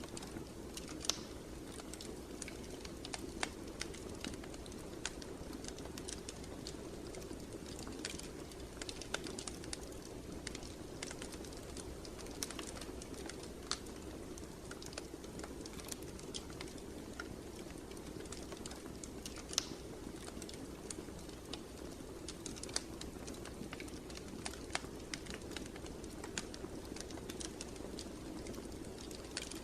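Wood fire burning in a fireplace: irregular crackles and small pops over a steady low noise from the flames.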